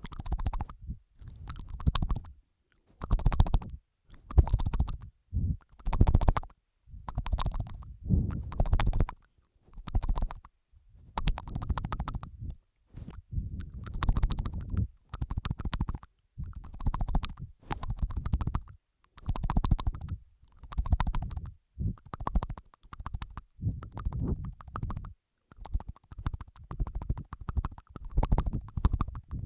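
ASMR mouth sounds close to a sensitive microphone: wet licking, sucking and smacking sounds of the mouth and tongue, layered, coming in a steady run of separate bursts each lasting up to about a second with short pauses between.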